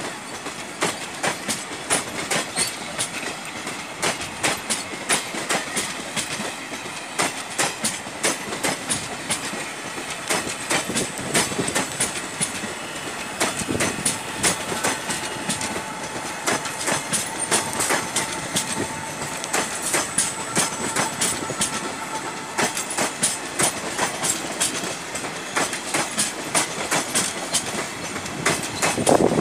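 Passenger express coaches rolling past, their wheels clicking rhythmically over the rail joints over a steady rumble. A faint wheel squeal comes in midway.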